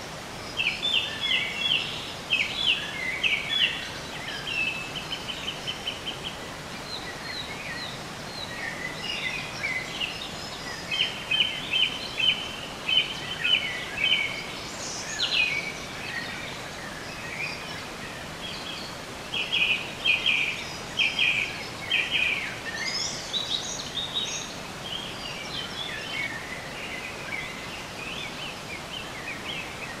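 Songbirds singing: phrases of quick trilled notes and chirps, over a steady hiss.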